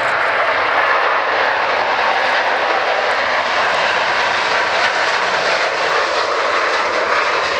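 Airliner engines, loud and steady, from a plane landing or taking off close by.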